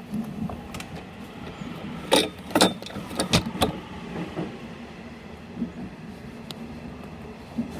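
Electric commuter train heard from inside the car while running: a steady low hum of running noise, with four loud sharp clacks of the wheels on the track between about two and four seconds in.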